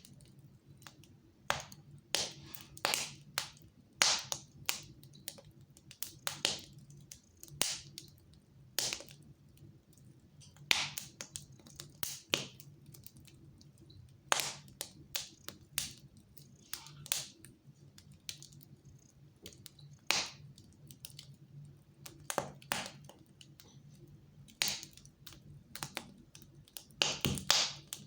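Fire crackling in a fireplace: irregular sharp pops and snaps, a few every couple of seconds, over a low steady hum.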